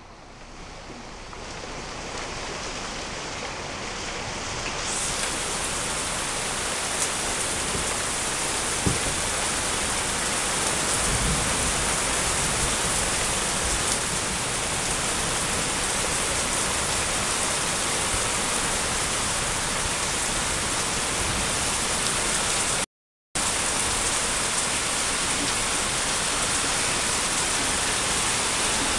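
Heavy rain falling steadily, growing louder over the first few seconds and then holding even. The sound cuts out completely for a moment about 23 seconds in.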